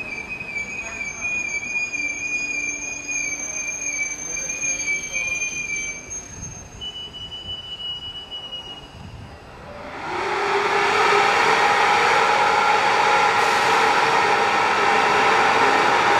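Railway carriage wheels squealing in long, high, steady tones as a passenger train rolls slowly through the station. About ten seconds in, this gives way to a loud, steady, fan-like whirr from a locomotive standing close by.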